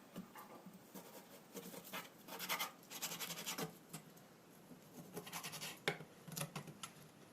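Two runs of quick scraping strokes, like something being rubbed or scraped against a hard surface, the first about two seconds in and the second about five seconds in.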